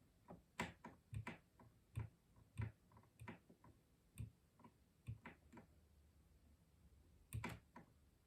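Custom mechanical keyboard typing, faint: irregular keystrokes in uneven runs, then a pause of about two seconds before a last quick cluster of keystrokes near the end.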